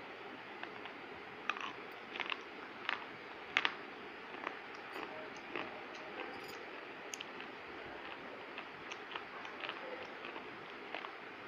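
Someone chewing crunchy food, with irregular sharp crunches and crackles, the loudest in the first few seconds, over a steady background hiss.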